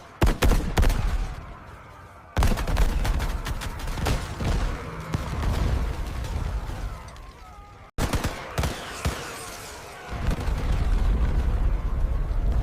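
Rapid gunfire in dense volleys over a heavy low rumble, cutting off abruptly a few times.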